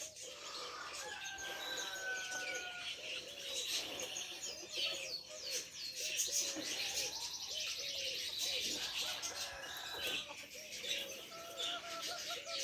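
Pigeons cooing in a repeated low pattern, with small birds chirping rapidly over them.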